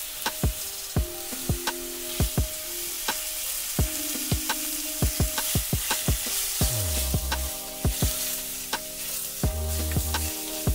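Beef slices sizzling in a miniature wok, with many sharp clicks as a small metal spoon stirs and scrapes the meat against the pan. Soft background music plays underneath.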